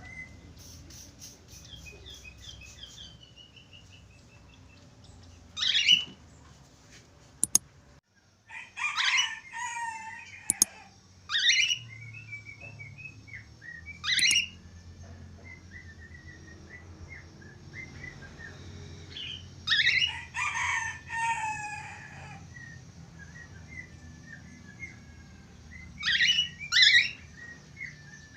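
Budgerigar chattering: scattered bursts of sharp chirps and warbling notes, with a couple of sharp clicks near the middle.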